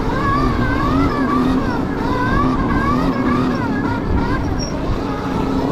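Electric dirt bike motor whining, its pitch rising and falling about twice a second as the throttle is worked, over a heavy rumble of wind on the microphone.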